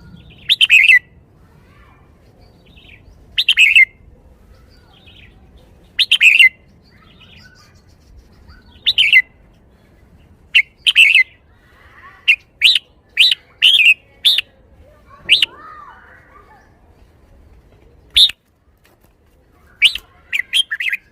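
Red-whiskered bulbul singing: loud, short chirpy phrases about every three seconds, then a quicker run of notes in the second half.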